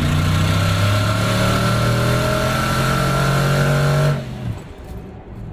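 Twin-turbocharged 6.0 L LQ4 V8 pickup engine at full throttle, its note climbing steadily as it pulls. About four seconds in the throttle closes and the engine drops abruptly to a much quieter run.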